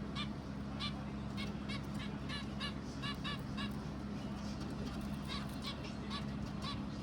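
Geese honking in a run of short, quick calls, pausing about midway and then starting again, over a steady low hum.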